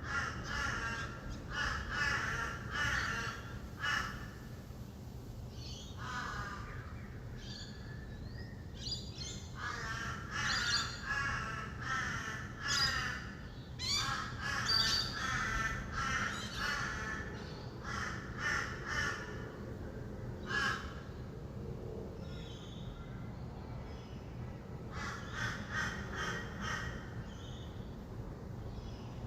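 Rainbow lorikeets screeching and chattering in many short, harsh calls, thinning out for a few seconds a little past two-thirds of the way through before picking up again. Under them runs a steady low rumble of distant traffic.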